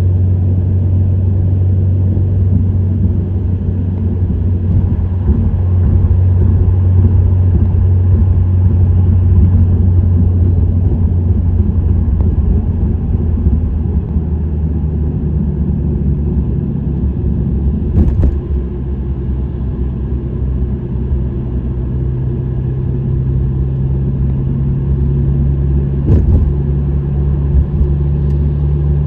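Subaru WRX STI's 2.0-litre turbocharged flat-four, fitted with an STI Performance muffler, running with a steady low drone while cruising. The pitch shifts around the middle and rises gently near the end. Two short knocks come through, one past the middle and one near the end.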